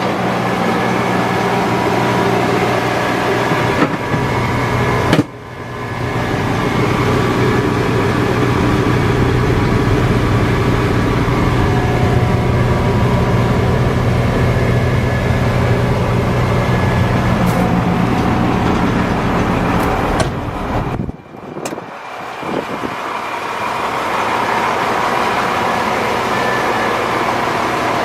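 International DT466E diesel engine of a dump truck running steadily, with two brief drops in the sound about five seconds and about twenty-one seconds in.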